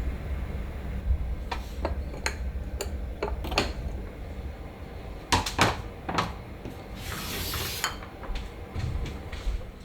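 Dishes and cutlery clinking and knocking at irregular intervals as tableware is handled during a meal, with a short hiss about seven seconds in.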